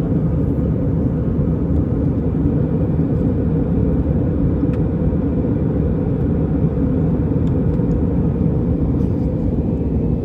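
Steady low rumble of an Airbus A320's jet engines and airflow, heard inside the passenger cabin.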